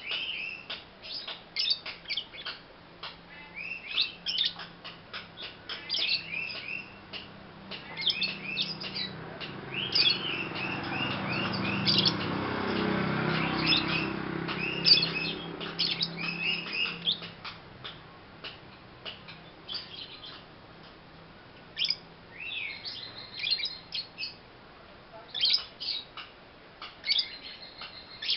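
Young pastel blue lovebird chirping: many short, quick high chirps in rapid runs throughout. A low hum underlies it, swelling into a louder rumble about a third of the way in and fading away past the middle.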